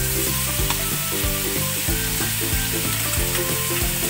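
Pork ribs, tomatoes, onions and garlic sizzling in hot oil in a non-stick pan as the boiled ribs are added and moved about, with a few light clicks.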